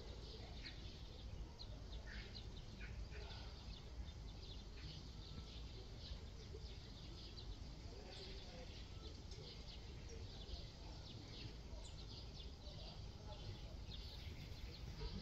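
Small birds chirping over and over, short high chirps scattered throughout, over a low steady outdoor rumble.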